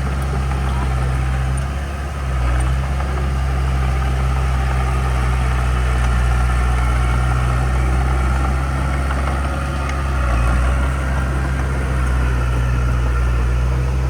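Heavy diesel engine of a construction machine running steadily with a deep drone, its load shifting slightly about two seconds in and again near the ten-second mark.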